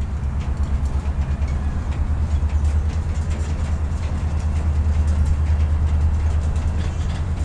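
Freight train of covered grain hopper cars rolling past, a steady low rumble of wheels on the rails.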